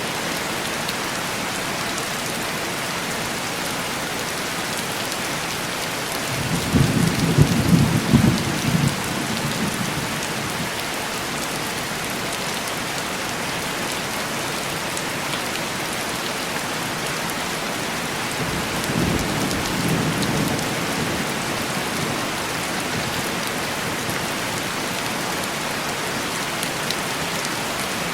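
Steady heavy rain falling, with two low rolls of thunder: a louder one about a quarter of the way in, lasting about three seconds, and a softer one about two-thirds of the way through.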